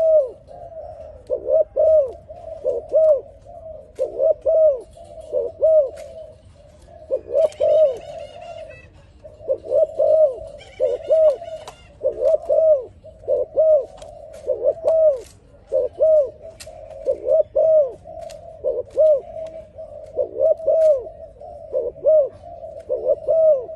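A dove cooing over and over: low, rounded coos in quick groups of two or three, repeated steadily with short gaps between phrases. Brief higher chirping comes in twice, about seven and eleven seconds in.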